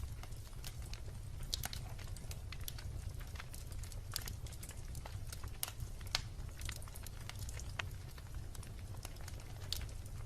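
Wood bonfire crackling, with irregular sharp pops and snaps several times a second over a steady low rumble.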